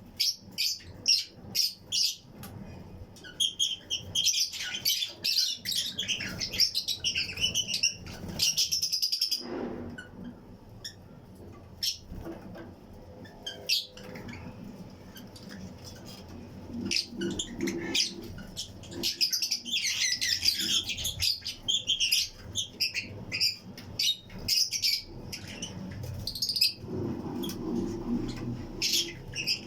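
A colony of Fischer's and lutino lovebirds chirping: high-pitched, rapid chirps that come in two dense spells, with a quieter stretch of scattered calls in between.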